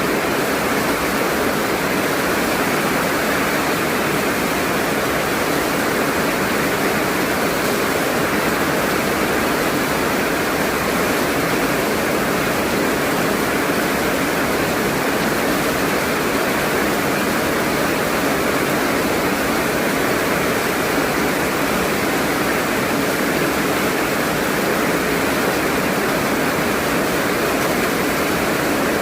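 Heavy rain falling, a steady, unbroken hiss of downpour that holds the same level throughout.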